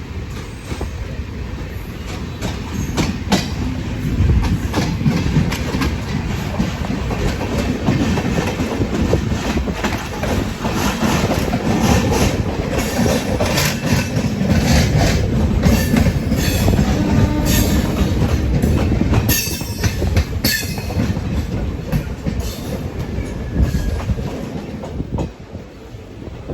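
Train running on rails, its wheels clattering over rail joints above a steady rumble, loudest around the middle.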